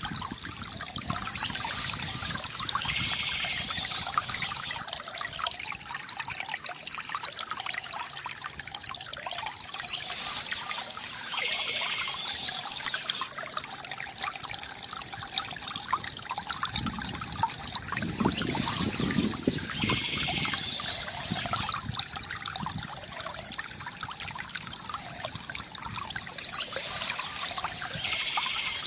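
A small stream trickling and splashing steadily. A brighter, hissier swell of splashing comes back about every nine seconds, and there is a deeper gurgle near two-thirds of the way through.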